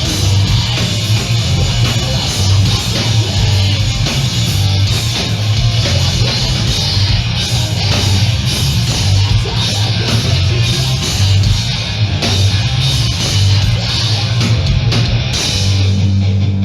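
Live hardcore punk band playing loud, with distorted electric guitars, bass and pounding drums. Near the end the drumming thins out and a low chord rings on.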